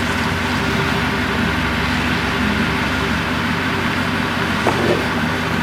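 Ford F-150's 5.4-litre V8 running steadily at idle through Flowmaster dual exhaust, with an even, unchanging exhaust note.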